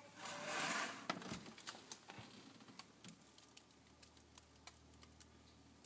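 Samsung RSG5UCRS fridge freezer's low buzzing hum, the buzz the owner complains of despite a service finding nothing wrong. A short rush of noise about half a second in is followed by a string of sharp clicks and knocks as the door is handled, and the low hum changes about two-thirds of the way through.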